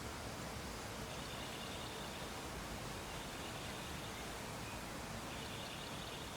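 Steady background hiss of room or ambient noise, with faint high-pitched tones coming and going twice.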